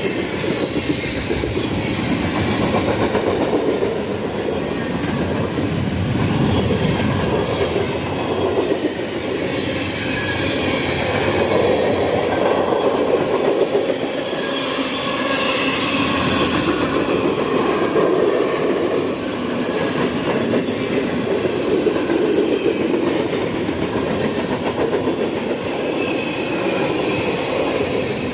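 Freight train cars rolling past at close range, steel wheels clacking over the rail joints with faint wheel squeal coming and going.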